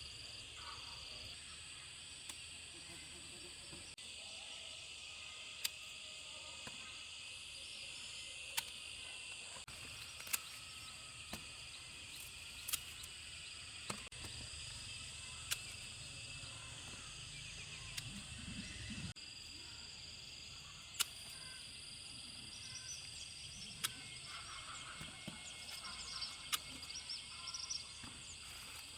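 Steady outdoor insect chorus, with sharp clicks every one to three seconds and a few softer rustles near the end.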